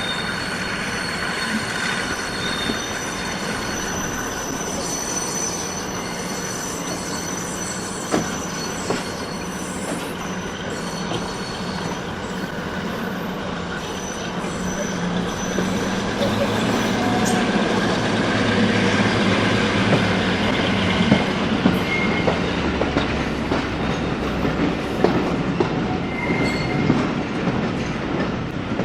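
Train running on the rails, with wheel squeal and the click of rail joints; the running sound grows louder and heavier through the second half.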